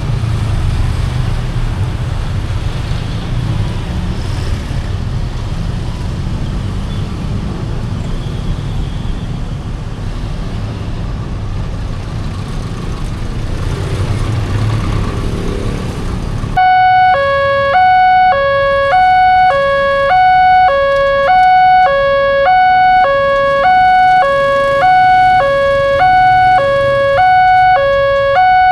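Road traffic running past, with motor vehicle engines, for about the first two-thirds. Then it cuts off abruptly and an Indonesian railway level-crossing warning alarm starts, an electronic two-tone signal alternating high and low about once a second, warning that a train is approaching.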